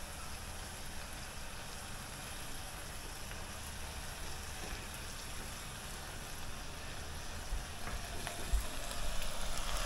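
Lamb curry sizzling steadily in an aluminium pot on a gas stove. A wooden spoon stirs it near the end, knocking a few times against the pot.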